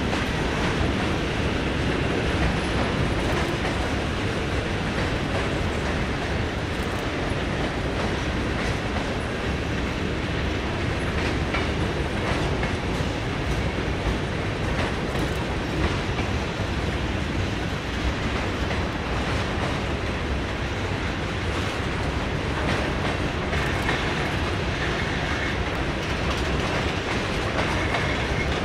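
Norfolk Southern freight train's cars rolling steadily past: a continuous rumble of steel wheels on rail with scattered clacks.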